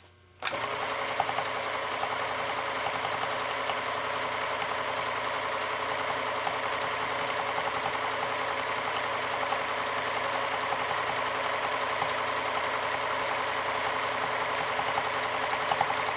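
Pfaff 1229 sewing machine running steadily at speed, stitching a decorative pattern on its elongator (fixed-ratio) setting. It starts about half a second in.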